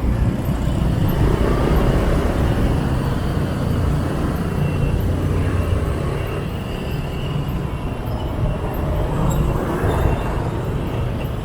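Dense street traffic heard from a moving motorbike: a steady mix of motorbike and scooter engines with road and wind noise.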